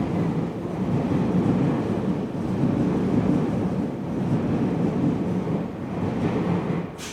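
Steady rumble of train noise heard inside a Tobu 70000 series subway car. It ends in a sharp knock near the end, after which it becomes much quieter.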